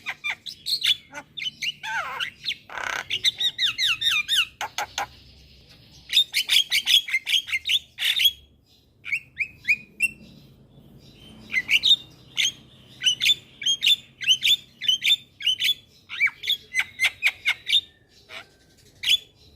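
Javan mynas calling: rapid runs of short, falling notes in bursts, broken by brief pauses.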